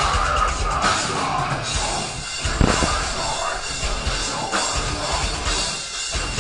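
A metalcore band playing live at full volume: distorted electric guitars, bass and a pounding drum kit.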